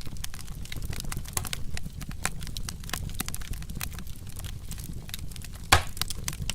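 Wood fire crackling, with irregular sharp pops over a low steady rumble from the flames, and one louder pop near the end.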